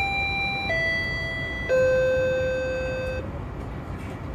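GO Transit train door-closing chime: three descending tones, the last held longest and fading out, over the steady low hum of the train, signalling that the doors are about to close.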